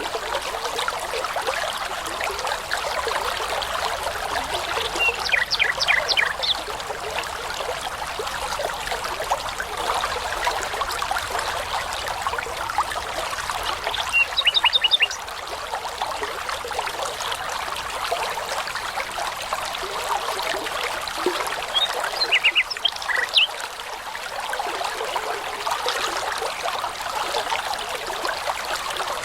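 Small brook babbling steadily over stones, with a songbird singing three short phrases of rapidly repeated high notes over it.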